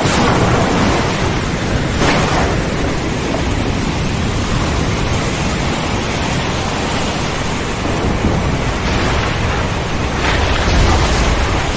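Heavy storm rain pouring steadily, with a deep rumble of thunder building near the end.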